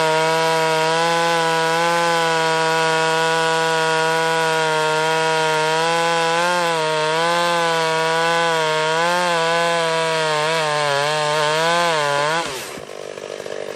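Chainsaw running at full throttle while cutting wood, its pitch wavering and dipping as the chain bites under load. Near the end the throttle is let off and the engine drops to a low idle.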